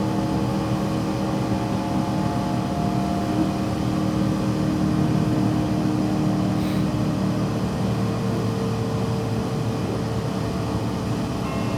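Interior running sound of a JR West 117 series electric train: a steady mix of motor and gear hum over wheel-and-rail rumble.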